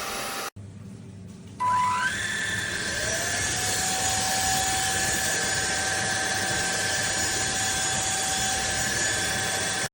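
Cordless stick vacuum cleaner switching on about a second and a half in: its motor whine rises in pitch for about a second, then settles into a steady run with airflow noise. It cuts off suddenly at the end.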